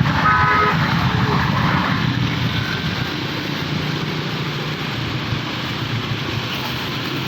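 Steady vehicle and wet-road traffic noise in heavy rain, a low rumble under a constant hiss, with a short horn toot about half a second in.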